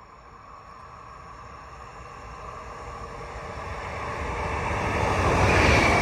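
A train approaching, its rumble and rail noise growing steadily louder and loudest near the end, where a faint high ringing tone also comes in.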